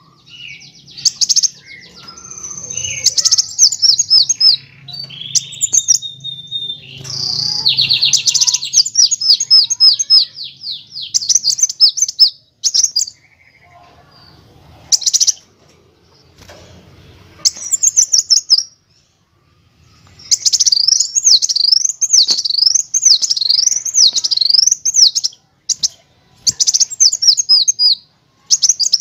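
Kolibri wulung sunbird singing: high-pitched chirps and fast rolling trills with short pauses between phrases. From about two-thirds of the way in, the song turns to rapid zigzag trills that rise and fall in pitch.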